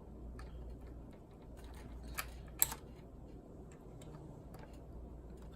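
Light, irregular clicks and ticks of a small screwdriver turning out laptop case screws, with two sharper clicks about two and a half seconds in.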